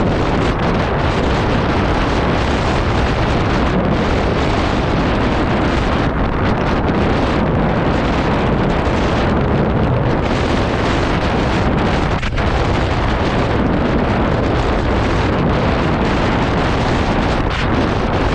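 Strong wind buffeting the microphone of a rider on a moving scooter, a loud, steady rush of noise.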